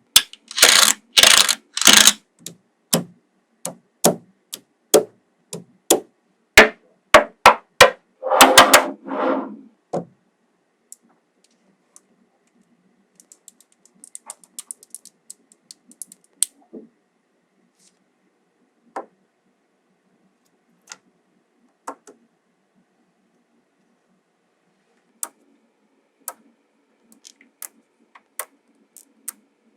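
Small magnetic balls clicking as they snap together. A quick run of sharp clicks and a short rattle over the first ten seconds, then scattered single clicks with a faint rattle of loose balls.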